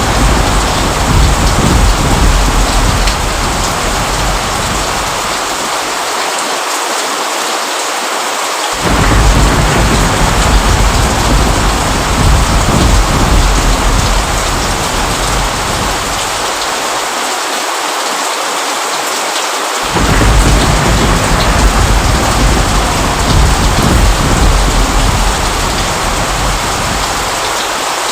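Steady heavy rain with rolling thunder. A deep rumble fades away, then cuts back in abruptly about nine seconds in and again about twenty seconds in, each time dying away over several seconds.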